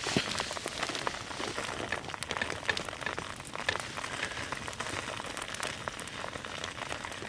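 Dense crackling and sizzling from food cooking over campfire coals, with many small sharp pops scattered through it.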